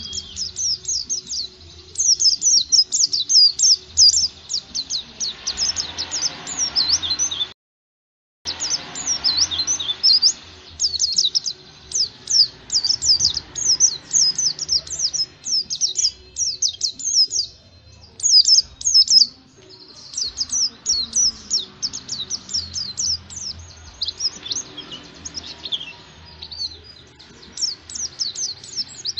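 White-eye (pleci) singing a fast, high, twittering song of short chirps in quick succession, almost without pause. The song cuts out completely for under a second about a third of the way in, then resumes.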